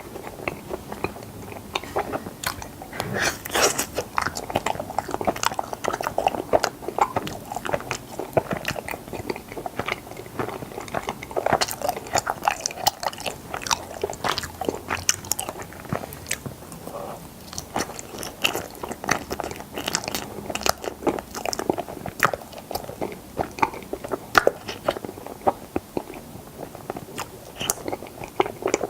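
Close-miked chewing and biting of strawberry mochi ice cream, heard as a dense, irregular run of mouth clicks and smacks.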